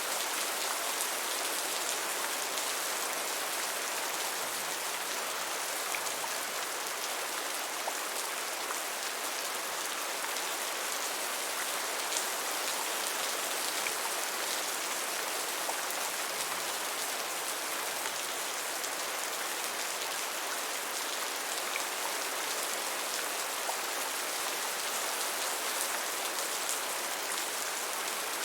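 Steady, gentle rain falling on a surface: an even, mostly high-pitched hiss with faint scattered drop ticks.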